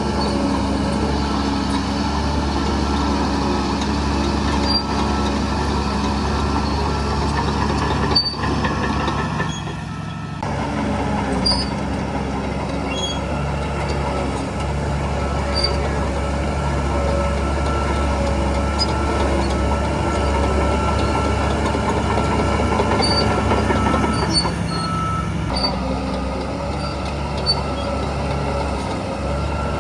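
Heavy diesel earthmoving machinery running steadily under load, with a few brief clanks and a shift in engine note partway through.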